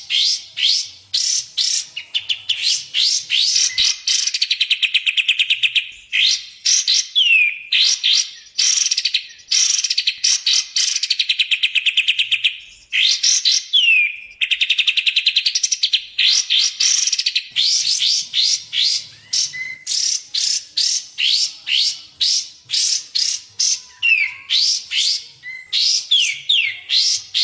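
Recorded songs of kapas tembak and cucak jenggot, two songbirds kept in Indonesia: long runs of quick, sharp whistled notes sweeping up and down. Three times the notes give way to a very fast, even rattling trill held for about two seconds.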